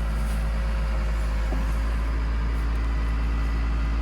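Diesel engine of a tractor-mounted backhoe running steadily while it digs a footer hole, with a steady low hum.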